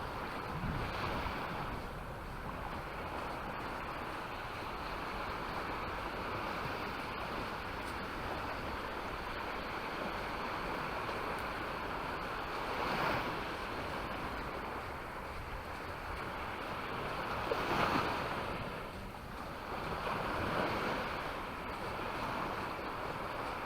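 Small waves breaking and washing up on a sandy beach, with a few louder surges, over wind noise on the microphone.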